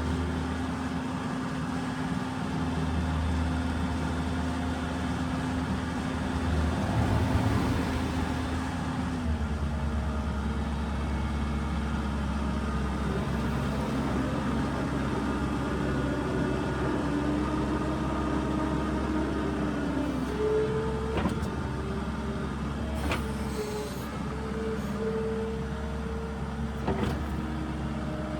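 New Holland skid steer's diesel engine running steadily, its note changing about nine seconds in as the load shifts. Higher whining tones come and go in the second half, with a few sharp knocks.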